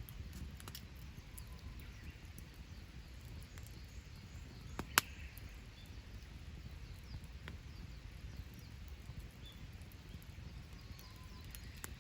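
Wood campfire crackling, with scattered small pops and one sharp, loud pop about five seconds in, over a low steady rumble.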